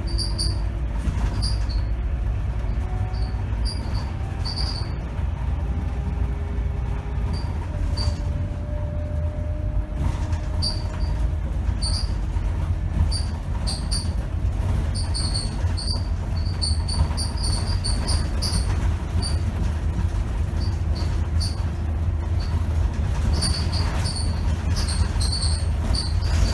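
Scania K270 city bus driving, a steady low engine and road rumble with many short high squeaks from the bus body and fittings, scattered irregularly and more frequent in the second half.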